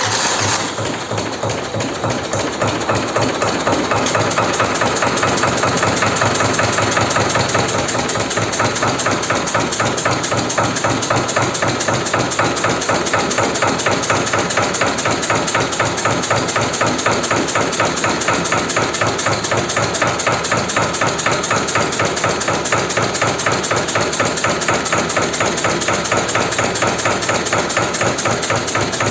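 T-25 tractor's air-cooled two-cylinder diesel engine running at idle just after a cold start following a winter of sitting. It makes a loud, fast, even clatter of diesel knocks, settling to a steady level over the first few seconds.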